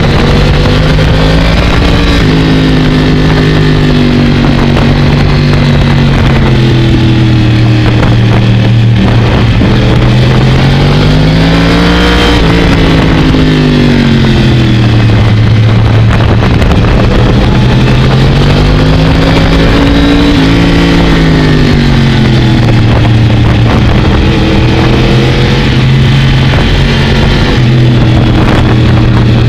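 Sport motorcycle engine running under way, recorded from on board the bike. Its pitch holds steady, then climbs and falls twice, once near the middle and again about two-thirds through, as the throttle is opened and closed through the bends.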